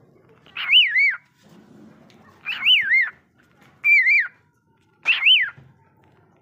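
A bird whistling the same short wavering call four times, each about half a second long and a little over a second apart.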